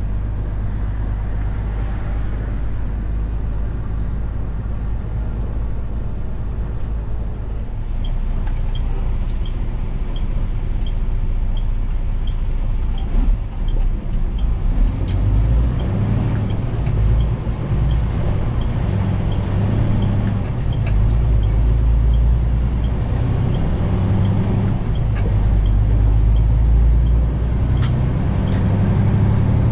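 Detroit DD15 diesel engine of a 2021 Western Star 4900 semi truck running under way, a steady low drone that grows louder and more uneven from about halfway through as the truck pulls. A faint regular ticking runs through the middle of it.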